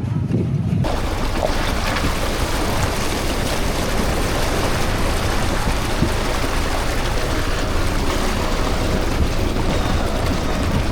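Steady rushing noise of a four-wheel-drive vehicle on a dirt track, tyre and wind noise with a low rumble, starting abruptly under a second in.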